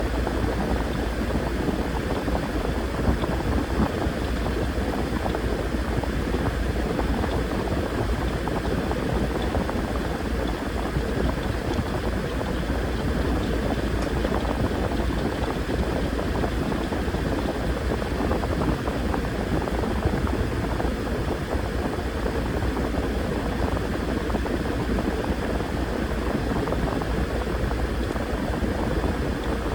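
Washing machine running, water churning and sloshing in the drum over a steady motor hum.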